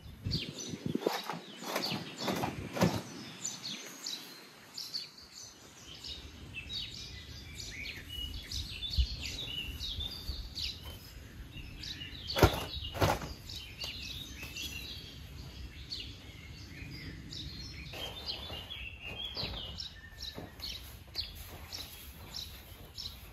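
Birds singing and chirping throughout, with several sharp snaps and knocks, the loudest pair about halfway through.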